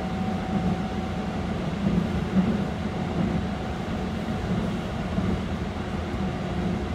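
Cabin running noise of a Keikyu 600 series electric train crossing a steel truss bridge: a steady low rumble of wheels on rail.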